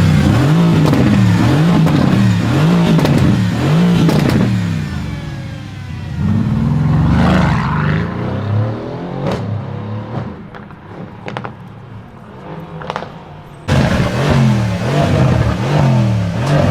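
Mercedes engine and loud exhaust being revved in quick repeated blips, about five rises and falls in the first four seconds. There is one more rev a few seconds later, then a quieter stretch with a few sharp clicks, before loud revving starts again abruptly near the end.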